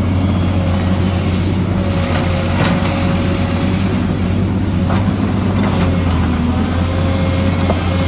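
Heavy diesel engine of an excavator running steadily under load, with a steady whine over the low drone and a few short knocks and clanks.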